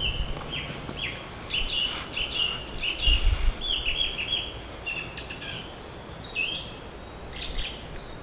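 A small songbird singing: quick runs of short, high chirping notes, with a falling whistle about six seconds in.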